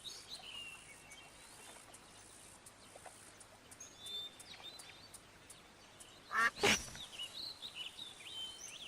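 Outdoor wildlife ambience: small birds chirping faintly throughout, broken once about six seconds in by a short, loud, harsh animal call.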